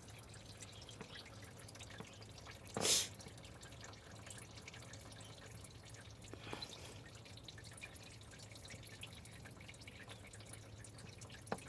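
Faint dripping of coolant leaking from a Chevrolet Silverado engine. A short burst of noise comes about three seconds in.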